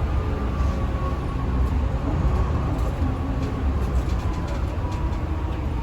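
Scania L94UA bus running, with a steady low rumble and a faint whine that slowly drops in pitch. A few light clicks or rattles come in the second half.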